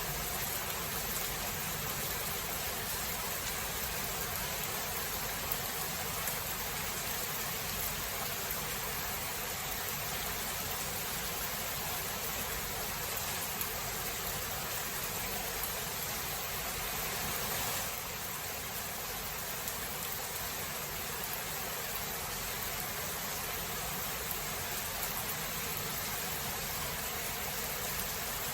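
Steady thunderstorm rainfall, an even hiss with no thunderclap. The level drops slightly a little past halfway.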